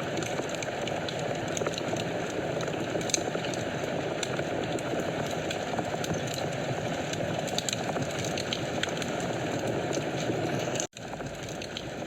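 Wood fire in a fireplace burning, a steady rush of flame with scattered small, sharp crackles and pops. About eleven seconds in the sound cuts out for an instant and comes back a little quieter.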